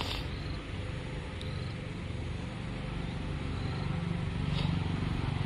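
A vehicle engine running steadily, a low rumble that grows louder toward the end, with a few faint clicks.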